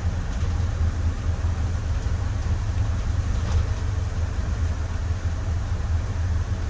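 A Micro Bird Girardin G5 cutaway bus driving, heard from inside the passenger cabin: a steady low engine and road rumble.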